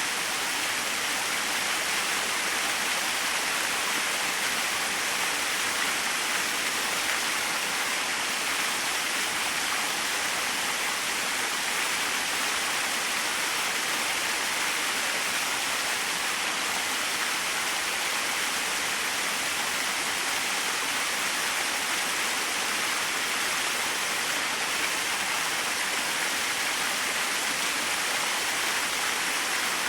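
Small waterfall splashing steadily, an even rushing hiss of falling water with no breaks.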